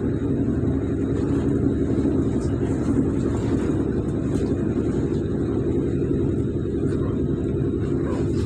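Electric multiple unit running along the track: a steady, even rumble of wheels on rail heard from inside the carriage.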